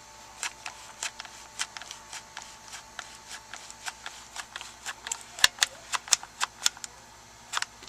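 Hot glue gun's trigger clicking over and over as it feeds glue, a few irregular clicks a second with a denser run about two thirds of the way through.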